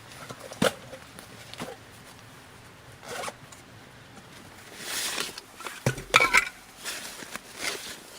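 Handling noises: a series of short rasping scrapes and clicks, a few seconds apart, with a louder cluster about six seconds in.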